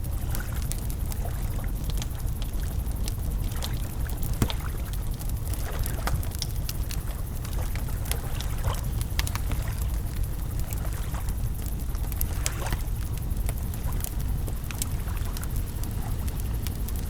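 Wood campfire crackling, with scattered sharp pops and a louder one about four seconds in, over a steady low rumble.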